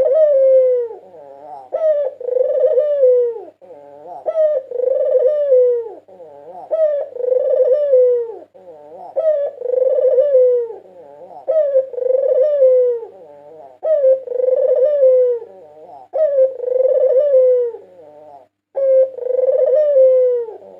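White Barbary dove (puter putih) cooing over and over, one falling-pitched coo phrase about every two seconds.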